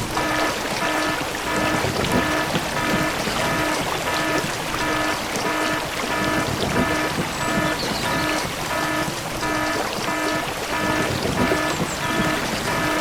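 Rapid, even electronic beeping, about three beeps a second, each beep the same pitch, over a steady watery rushing hiss.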